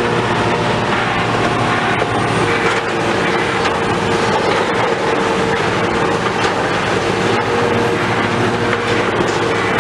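Heavy machinery running with steady metallic rattling and clanking over a low engine tone.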